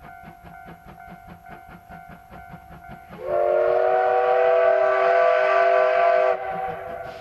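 Steam locomotive running with a regular rhythmic beat of about four to five a second, then sounding its whistle: a loud chord of several pitches held for about three seconds that cuts off sharply.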